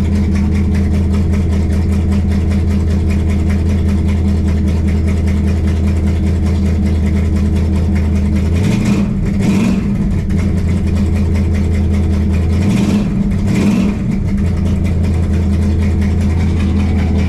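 Cold-started car engine idling steadily, blipped twice by the throttle for about a second each, roughly halfway through and again a few seconds later.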